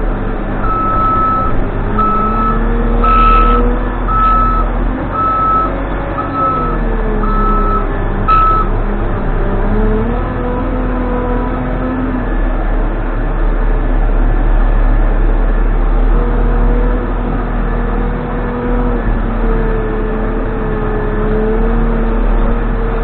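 Case 580N backhoe loader's diesel engine running under working load, its speed rising and falling, while its reversing alarm beeps about once a second for roughly the first eight seconds, then stops.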